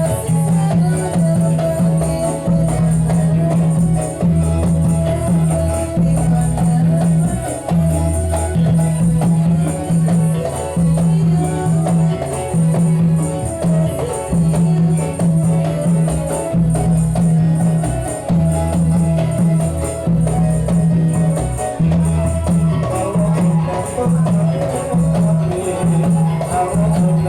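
Ndolalak dance music: a steady, driving rhythm from frame drums and jingling percussion.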